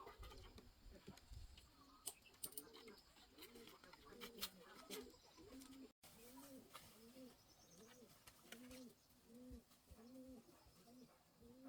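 Faint, soft cooing repeated over and over, about two coos a second, with a few faint clicks.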